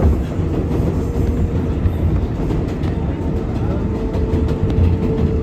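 Ride noise inside an R188 subway car running between stations: steady wheel-on-rail rumble with a faint, level whine held throughout and a few light clicks.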